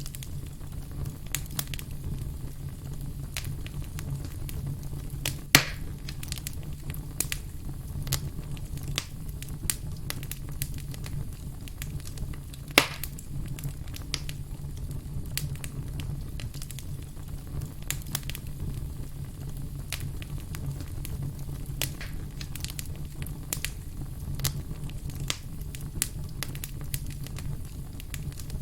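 Wood campfire crackling, with many small irregular snaps over a steady low rumble of the flames. Two much louder pops stand out, about five and a half seconds in and again at about thirteen seconds.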